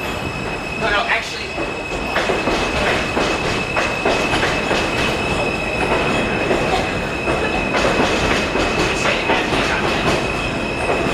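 R160 subway train running into a station, its wheels clicking over rail joints with a steady high-pitched squeal throughout.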